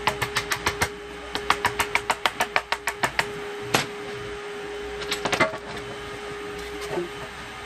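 Hand ratchet wrench clicking in quick runs, about seven clicks a second, as bolts on the engine are worked loose, with a few single metal clicks after and a steady hum underneath.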